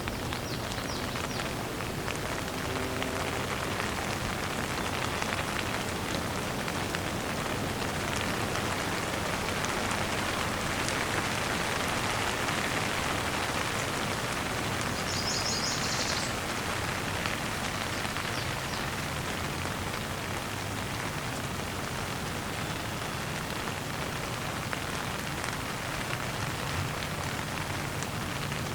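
Steady rain falling, drops pattering on the ground in an even, unbroken hiss.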